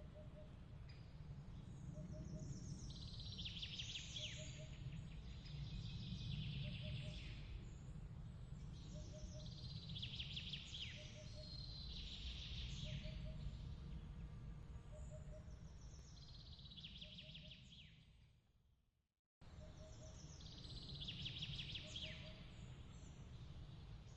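Birds singing in short bright phrases that repeat every few seconds, over a faint low rumble, with a soft double pip recurring about every second and a half. About three-quarters of the way through, everything fades out and then cuts back in abruptly.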